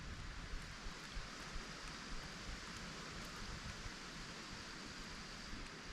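Faint, steady hiss of wind and water lapping around a kayak, with a few light ticks.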